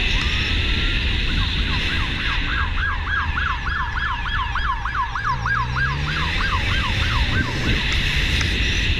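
Emergency-vehicle siren in fast yelp mode, its pitch sweeping up and down about three times a second, starting about a second in and dying down near the end. A steady low rumble of engine and wind runs underneath.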